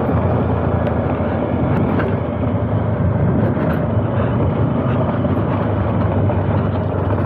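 Bajaj Dominar 400's single-cylinder engine running steadily as the motorcycle is ridden along.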